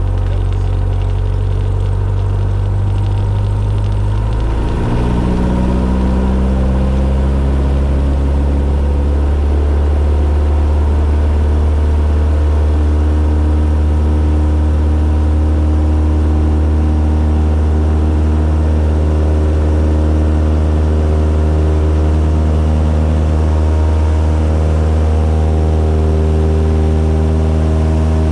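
Cessna 172's piston engine and propeller running at low power, then about four or five seconds in the pitch rises over a couple of seconds as the throttle is opened, and the engine holds steady at the higher speed.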